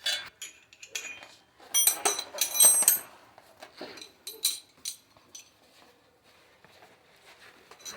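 Loose metal parts and tools clinking and rattling as they are handled, with a cluster of ringing metallic clinks between about two and three seconds in and a few more near the middle, then only faint light ticks.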